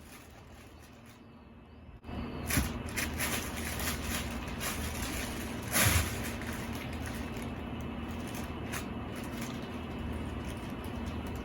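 A steady low hum of room noise with a few knocks and faint clicks, starting about two seconds in; the loudest knock comes about six seconds in.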